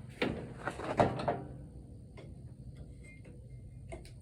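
Hand tools clattering and rattling as they are rummaged through in search of needle-nose pliers. Loudest in the first second and a half, then a few faint clicks.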